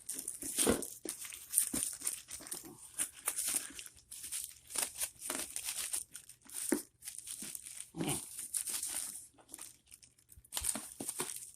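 A taped shipping package being torn open by hand: wrapping and tape crinkle and tear in irregular rustles, with a few knocks and short pauses.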